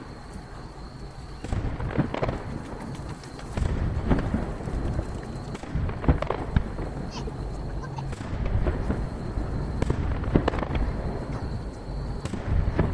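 Aerial firework shells bursting in a rapid series of sharp bangs, roughly every two seconds, each trailing off in a rolling echo over a continuous low rumble. The audio is sped up to three times normal speed.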